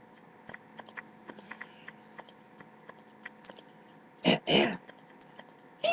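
A man imitating an animal call with his voice: soft mouth clicks, then two short loud vocal squeals about four seconds in and another at the very end.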